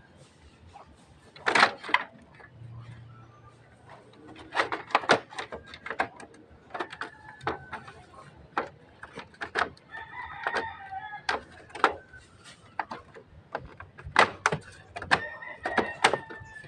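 A rooster crowing in the background, once about ten seconds in and again near the end, over a run of sharp clicks and knocks that are the loudest sounds.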